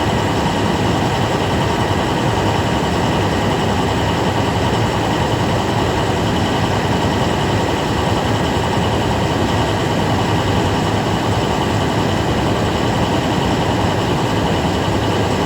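MaxxForce 7 V8 turbodiesel in an IC CE school bus idling steadily, with no revving.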